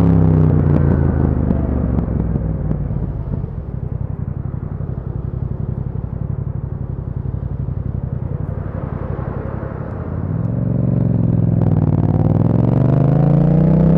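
Yamaha MT-07's 689 cc parallel-twin engine through an Akrapovic exhaust. Revs fall as the bike slows, then it settles into a steady, pulsing idle for several seconds, and the revs climb again as it pulls away in the last few seconds.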